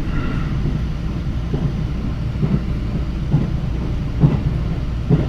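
Train running at speed, heard from inside the carriage: a steady low rumble with a soft knock about once a second, the wheels passing over rail joints.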